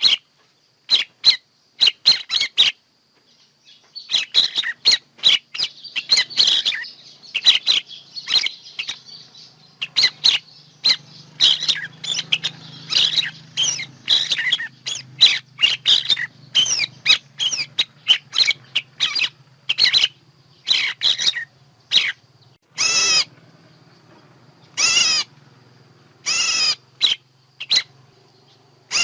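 Birds calling: a fast, irregular string of short chirps and whistles, with a few longer calls near the end. This is birdsong of the kind played as a lure for bird trapping.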